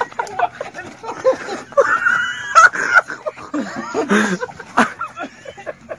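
Excited human voices shouting and yelling in short bursts.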